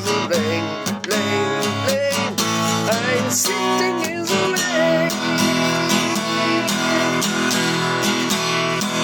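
Acoustic guitar strummed steadily in a folk-rock rhythm, with a wavering melody line over the chords for the first few seconds.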